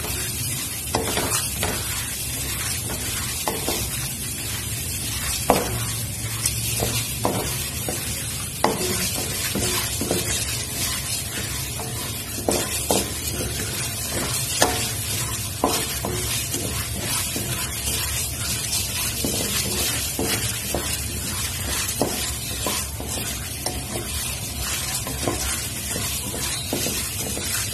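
Chana dal roasting in mustard oil in a kadhai, being browned: a steady sizzle, with a wooden spatula scraping and knocking against the pan as the lentils are stirred, a few knocks sharper than the rest.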